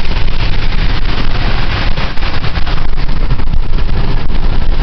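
Truck driving on a rain-soaked highway, heard from inside the cab: steady road rumble and tyre hiss from the wet road.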